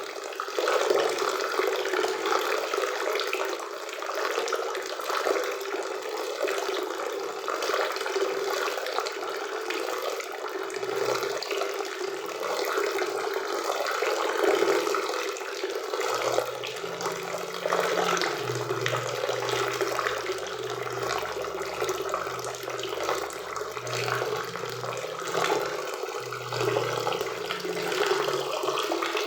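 Waterfall and river water rushing steadily. A faint low hum comes in about halfway through and runs under the water almost to the end.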